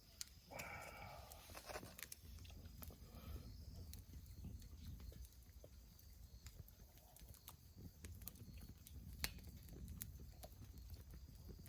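Faint, irregular clicks and light taps over a low rumble.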